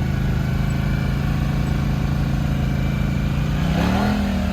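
Small off-road vehicle engine running steadily, then revving up about three and a half seconds in and holding at the higher pitch as it accelerates.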